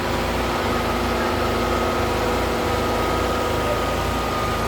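Tractor diesel engine running steadily at constant speed, with a thin steady high tone above the engine note.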